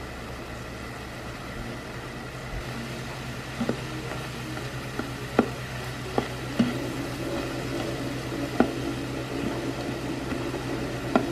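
Ground beef and diced onion sizzling in an Instant Pot's stainless steel inner pot, with a steady low hum beneath. From about four seconds in, a slotted plastic spoon stirs the mixture and knocks against the pot a few times.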